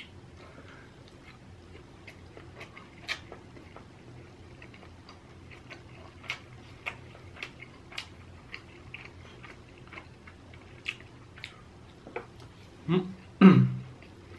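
A person chewing inari sushi (fried bean curd pouches filled with seasoned rice) close to the microphone, with scattered soft mouth clicks. Near the end come two short, low vocal sounds.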